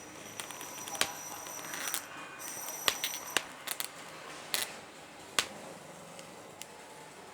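Small metal engine parts clicking and knocking as they are handled during assembly: about eight sharp, irregular clicks and taps, with a faint high whine through the first half.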